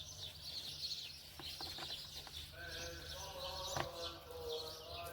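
Birds chirping, with a long bleat from a goat or sheep starting about halfway through and lasting around two seconds, over a low steady hum.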